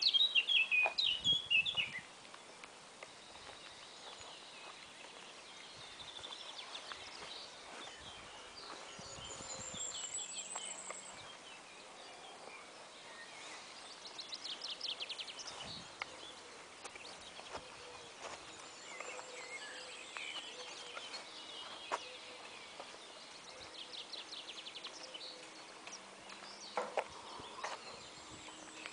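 Small birds singing and chirping in short, scattered phrases and high trills over faint outdoor background noise, with a louder burst of calls in the first two seconds.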